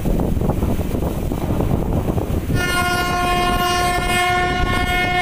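Moving passenger train's wheels rumbling on the track, heard from the coach doorway; about two and a half seconds in, the train's horn sounds one long, steady blast held for about three seconds.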